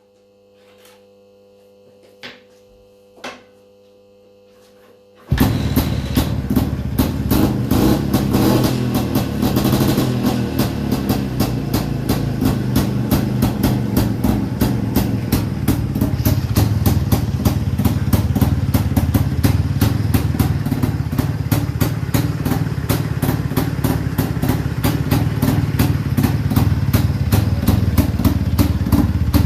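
A restored 1957 IZh-49 motorcycle's single-cylinder two-stroke engine starting about five seconds in after two short knocks, revving briefly, then running steadily with a fast, even firing rhythm.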